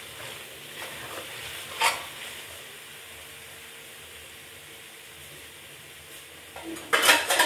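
Besan halwa sizzling faintly in hot ghee in a wok with the flame off, with a fork scraping through it at first and a sharp clink about two seconds in. A burst of loud clattering near the end.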